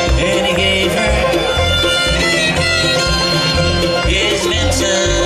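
Live bluegrass band playing an instrumental break, with fiddle, banjo and guitar over a steady bass beat.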